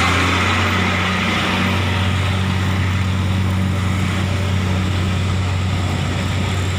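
Heavy vehicle engine running with a steady low drone, typical of a truck working up a steep climb.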